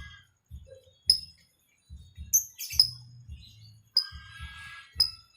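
Lovebirds calling back and forth: short, sharp, high chirps about once a second, with a longer, fuller call about four seconds in, over a low intermittent hum.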